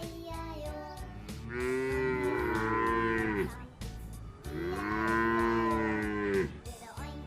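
Cows mooing: two long moos of about two seconds each, the first about a second and a half in and the second near the middle, each dropping in pitch as it ends. Background music plays underneath.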